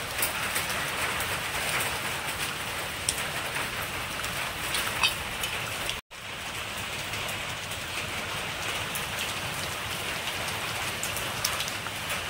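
Food frying in hot oil: a steady crackling sizzle with scattered sharp pops, broken by a brief cut about halfway through.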